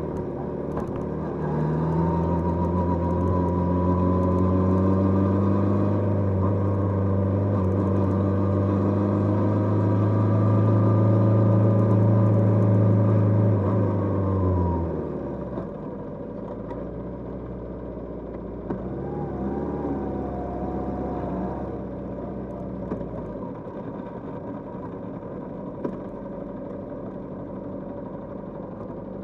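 Kawasaki GPZ550 air-cooled inline-four motorcycle engine pulling under throttle at a fairly steady engine speed, dipping briefly near the start as with a gear change and then climbing slowly. About fifteen seconds in the throttle closes and the engine drops to a quieter, lower note for the rest.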